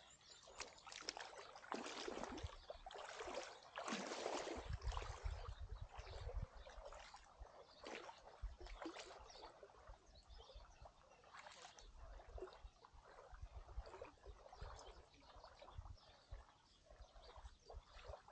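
Water splashing and sloshing as a person climbs into a shallow rock-lined hot-spring pool, busiest in the first few seconds, then small irregular splashes and trickling.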